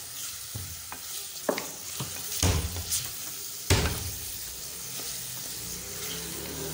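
Boneless chicken pieces frying in oil with ground spices in a metal pan, sizzling steadily while a wooden spoon stirs and scrapes them. Several sharper scrapes and knocks of the spoon against the pan stand out, the loudest a little over halfway through.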